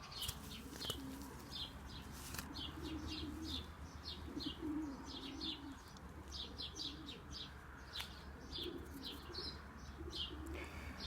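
Pigeons cooing softly under a steady run of short, high chirps from small birds. A few sharp clicks come through, one about a second in and one near eight seconds.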